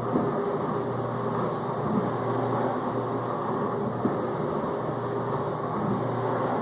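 Whirlpool dishwasher in its main wash circulation: the pump drives detergent water through the spray arms in a steady rush over a constant motor hum, with a few light knocks.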